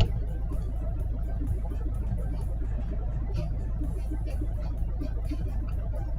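Steady low rumble of a VW Golf 5 running, heard from inside the car.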